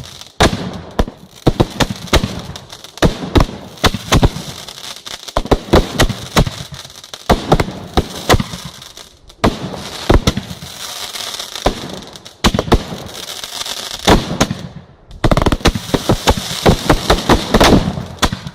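Fireworks display: aerial shells bursting one after another with loud bangs and crackling between them. A dense rapid volley of bangs about fifteen seconds in.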